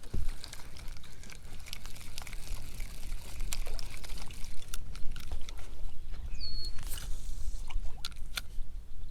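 Water sloshing and trickling against a kayak hull, over a steady low rumble, with scattered small clicks and knocks. A short high chirp comes about six and a half seconds in.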